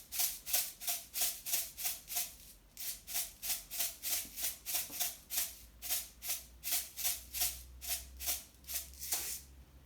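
Himalayan pink salt being shaken or ground from its container into the seasoned flour, in quick, regular, rattling strokes about three a second, with a short pause a little before the third second.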